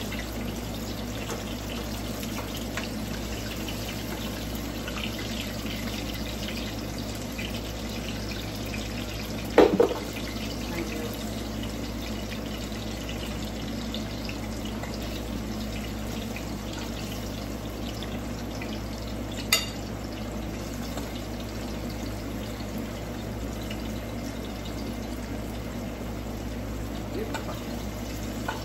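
Ripe plantain slices sizzling steadily in oil in a frying pan. A sharp double knock, the loudest sound, comes about ten seconds in, and a single click near twenty seconds.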